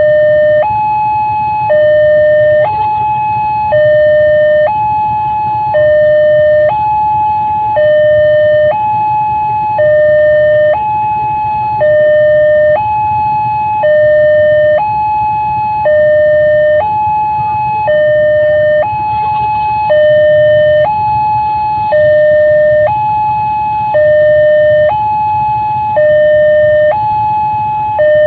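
Electronic warning alarm of a railway level crossing, a two-tone signal alternating evenly between a lower and a higher tone about once a second, with a steady low rumble underneath.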